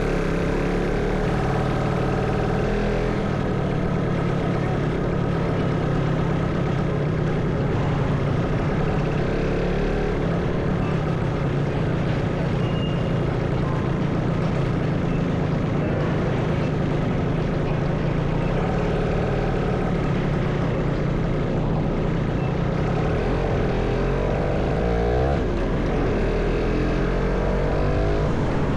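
Motorcycle engine running steadily while riding, with road and traffic noise. The engine note sways up and down briefly about 25 seconds in.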